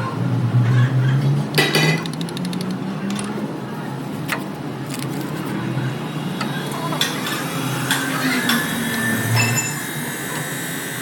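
Hand tools clinking and knocking against metal car parts, a handful of sharp separate clinks, with low voices talking.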